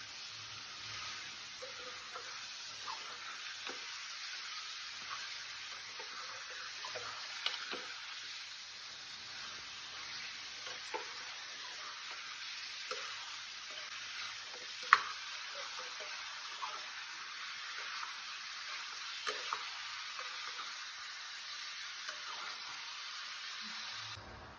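Chicken pieces sizzling in hot sesame oil in a pressure cooker as they are stirred, a steady frying hiss with scattered clicks and scrapes of a metal spoon against the pot. One sharp clink about fifteen seconds in is the loudest sound, and the sizzling cuts off just before the end.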